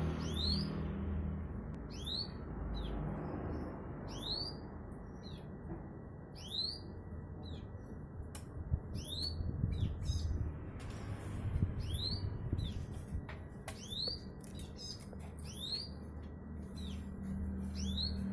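A bird calling over and over with short, sharply rising chirps, roughly one or two a second, over a low steady hum.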